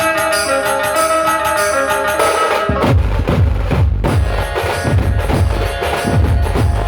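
Dhumal band music: a melody of held notes plays, then about three seconds in heavy, deep drums break in with a fast, driving beat.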